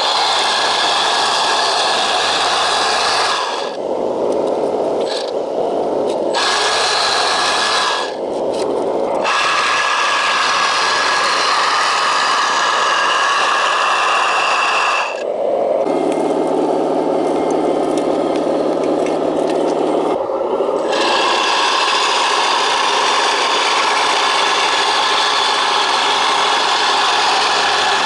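Scale RC construction machine's electric motors and gears whirring and grinding as it works a driveway asphalt patch, stopping briefly a few times, with a steady motor hum for a few seconds past the middle.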